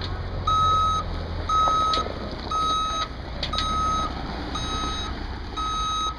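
Tri-axle dump truck backing up: its backup alarm beeps about once a second over the low rumble of the diesel engine, stopping near the end.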